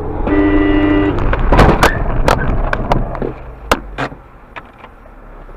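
A car horn blares for under a second, then a car crash: a run of loud sharp bangs and crunches over the next two and a half seconds, dying away into road noise.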